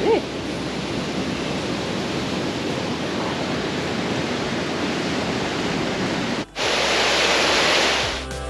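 Waterfall rushing: a steady noise of falling water. About six and a half seconds in it drops out for a moment, then comes back louder and brighter for about a second and a half before easing off.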